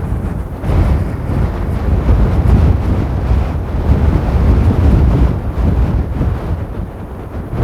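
Strong gusty storm wind buffeting the microphone, a loud low rumble that swells and eases with the gusts.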